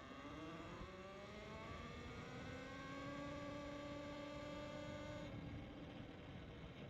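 Electric bike motor whining, rising in pitch as it speeds up, then holding a steady pitch until it cuts off about five seconds in.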